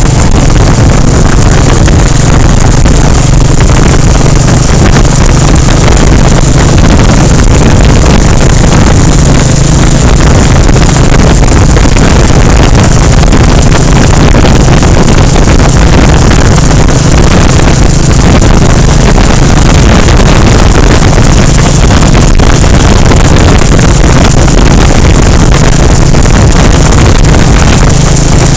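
Royal Enfield Bullet 350's single-cylinder engine running at a steady highway cruise, loud and overlaid by heavy wind noise on the phone's microphone.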